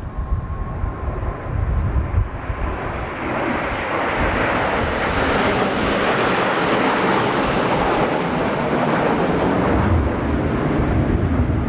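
Blue Impulse Kawasaki T-4 jet trainers passing: a broad jet noise swells about three seconds in and holds steady. Low wind buffeting on the microphone is heard at the start and again near the end.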